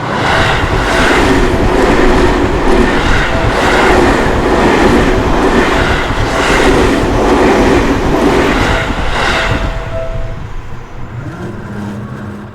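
A train passes a level crossing, its wheels clacking over the rail joints in a regular rhythm. The noise fades after about ten seconds, and the crossing's ringing warning bell comes through again near the end.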